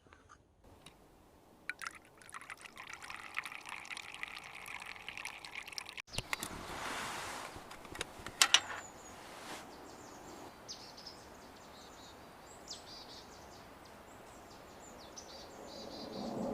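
Liquid being poured for about five seconds, then after a sudden cut, faint outdoor ambience with scattered high bird chirps.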